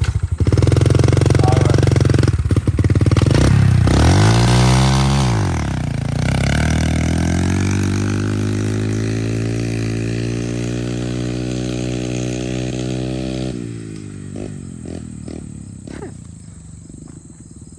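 Small 70cc pit bike engine revving hard. Its pitch dips and climbs again about four seconds in, then it holds a steady, slowly rising pitch as it gets quieter riding away, and drops off sharply near the end.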